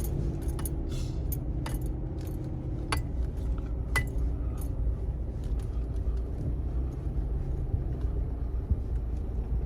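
A vehicle running over a bumpy track, a steady low engine and road rumble, with keys and loose objects jangling and clinking now and then.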